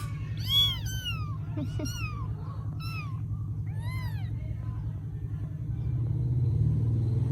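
Baby kittens mewing: a run of short, high, arching cries in the first four seconds or so, over a steady low hum.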